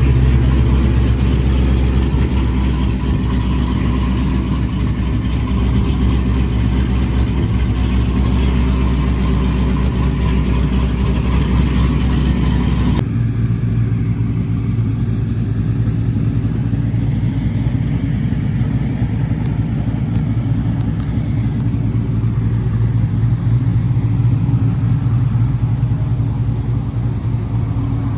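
A car engine running steadily. About halfway through the tone changes abruptly, as at a cut.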